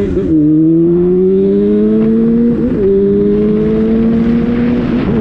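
Motorcycle engine accelerating under way, its pitch climbing steadily and dipping briefly at gear changes about a quarter second in, about halfway through, and near the end. Wind hiss grows toward the end.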